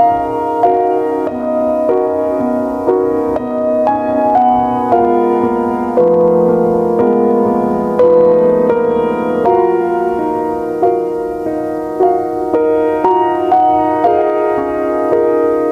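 Background piano music: a slow melody of single struck notes, each ringing and fading before the next.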